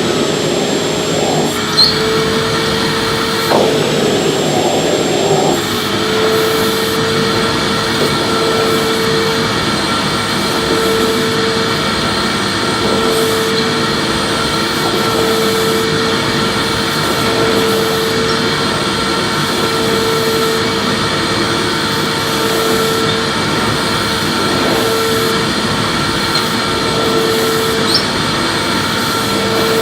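Electric vacuum cleaner running steadily while being pushed back and forth over a floor, its motor noise wavering in a slow, regular rhythm about once a second. A brief rougher rush early on and a faint click near the end.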